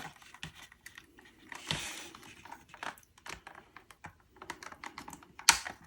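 Small plastic clicks and handling noises as an HO scale model passenger coach's body shell is worked down onto its floor, with a couple of louder snaps near the end as it clips into place.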